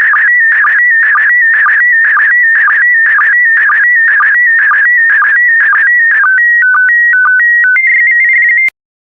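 PD120 slow-scan television (SSTV) signal: the warbling audio tones of the last picture lines, repeating about twice a second. Near the end the warble gives way to a short run of stepped beeps and a held tone, which cuts off with a click into silence as the transmission ends.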